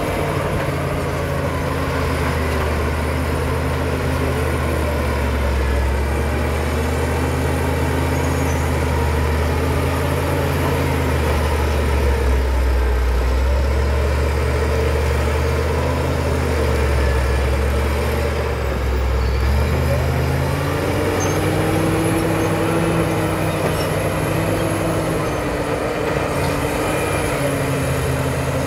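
Caterpillar D7 crawler bulldozer's diesel engine working under changing load, its pitch dipping and picking up again several times, with a faint high whine above it.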